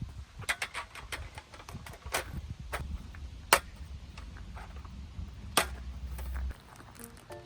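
Irregular sharp clicks and knocks, two of them louder, over a low rumble that stops about a second before the end.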